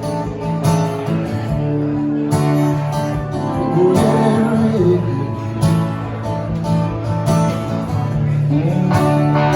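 Live music: a guitar-led instrumental passage of a slow soul ballad, with held notes and a few notes that slide in pitch.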